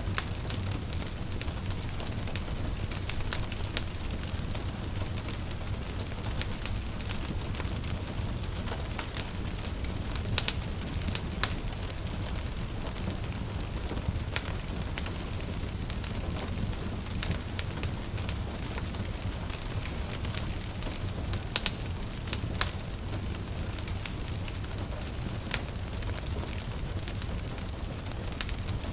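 Wood fire crackling with irregular sharp pops and snaps over a steady low rumble, with a soft patter of rain beneath it.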